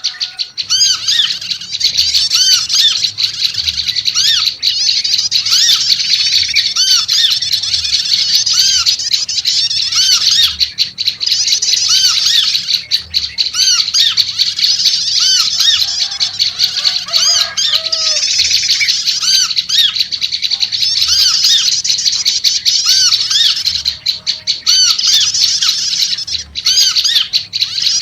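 Prenjak lumut birds calling busily and without pause, a dense chatter of quick, repeated arched notes in a noisy, agitated burst, the kind played as a lure to attract birds. A few lower notes from a trucuk (yellow-vented bulbul) come in briefly around the middle.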